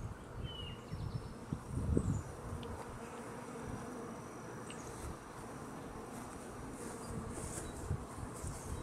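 Honey bees buzzing steadily in a dense hum around an opened hive, with a few low bumps about two seconds in.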